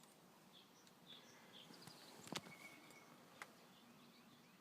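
Near silence, broken by a few faint clicks, one a little louder about two and a half seconds in, and some faint high chirps.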